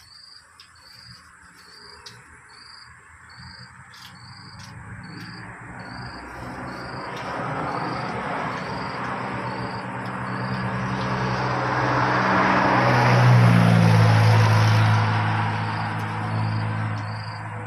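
A road vehicle passes close by: engine and tyre noise build slowly, are loudest about two-thirds of the way through, then fade. Under it, insects keep up a high chirp about every half second and a thin steady high buzz.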